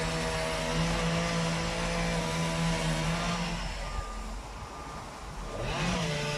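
An engine running steadily at high speed, easing off after about three and a half seconds and revving up again briefly near the end.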